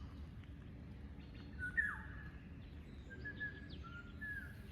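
Faint bird calls: several short whistled notes, one dropping sharply in pitch about two seconds in, over a low steady rumble.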